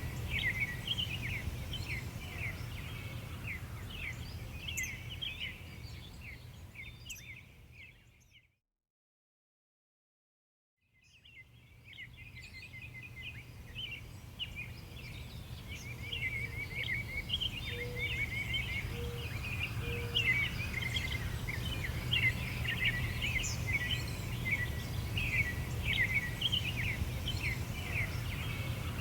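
A dense chorus of small songbirds chirping and twittering over a steady low background rumble. The sound fades out about eight seconds in, is silent for about two and a half seconds, then fades back in.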